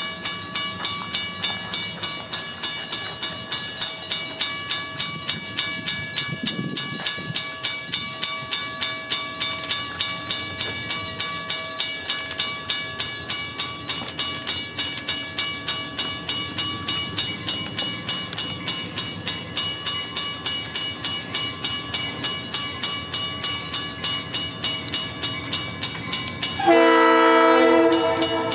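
Grade-crossing warning bell ringing steadily at about three strikes a second over the low rumble of a passing freight train. Near the end a locomotive air horn sounds one loud chord-like blast of about two seconds.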